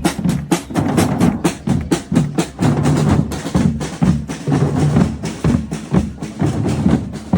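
Drums beating a fast, steady rhythm, about four strokes a second, with sharp clicking strikes over a deeper drum sound.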